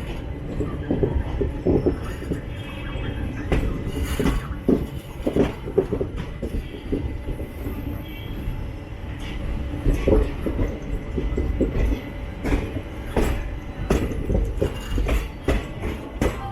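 Passenger express train rolling slowly into a station: a steady low rumble of the coaches with irregular clanks and clicks from the wheels over rail joints and points.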